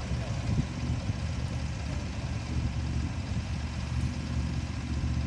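Ventrac 4500Z compact tractor's engine running at a steady, even speed.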